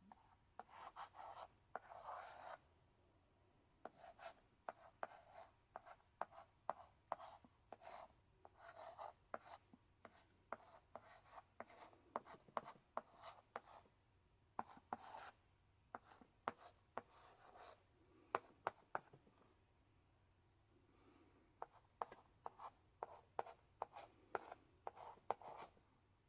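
Chalk in a chalk holder writing on a blackboard: short scratchy strokes mixed with sharp taps as the chalk strikes the board, with a brief pause a little past the middle.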